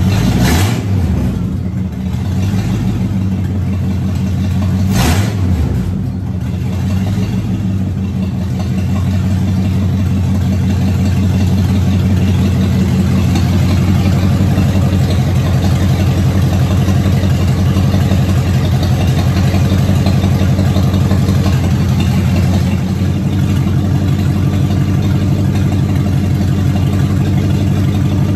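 Lincoln Mark VII's 5.0L small-block Ford V8 running on its first start in years, with a freshly installed fuel pump. It surges briefly twice near the start, about half a second in and again about five seconds in, then settles to a steady idle.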